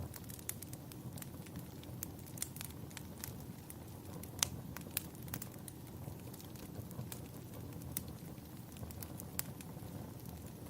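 Wood fire crackling in a fireplace: irregular sharp pops and snaps, the loudest about four and a half seconds in, over a steady low rumble.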